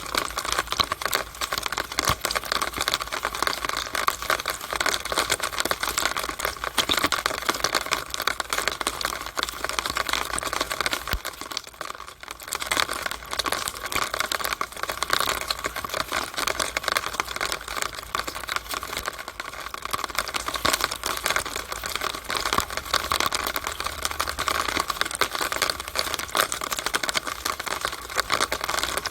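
Rainwater running through a downspout: a dense, rapid patter of drips and splashes, easing briefly about twelve seconds in.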